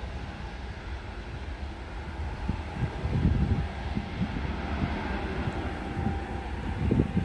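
Airliner engines running with a steady hum, overlaid by wind gusts buffeting the microphone that grow stronger about two and a half seconds in and again near the end.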